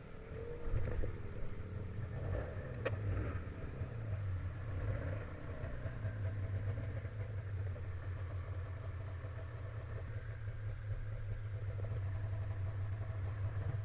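A vehicle engine running steadily at low revs, like an idle, with a couple of sharp clicks in the first three seconds.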